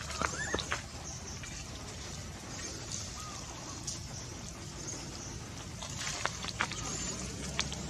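Steady outdoor background noise with a few short, high chirps near the start and around the middle, and scattered light clicks near the end.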